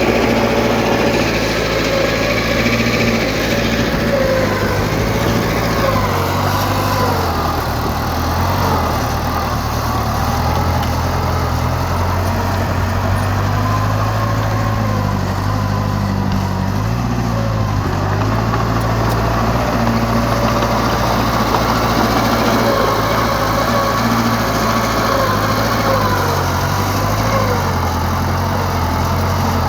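Heavy diesel engine of earthmoving machinery running steadily under load, its pitch wavering slightly as it works.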